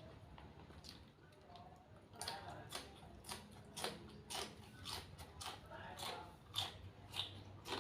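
Close-up eating sounds: a person chewing and smacking a spicy glass-noodle salad, with wet mouth clicks coming two or three times a second.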